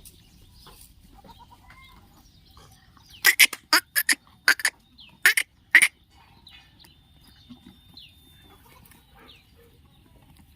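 Small birds chirping faintly, with a quick run of about eight loud, sharp, harsh sounds a few seconds in, over roughly two and a half seconds.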